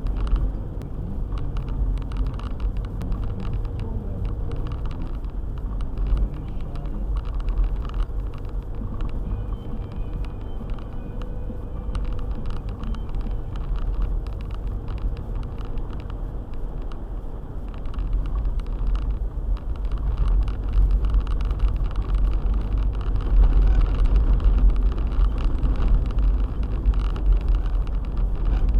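Four-wheel-drive car driving: a steady low engine and road rumble with scattered light ticks, growing louder about two-thirds of the way through.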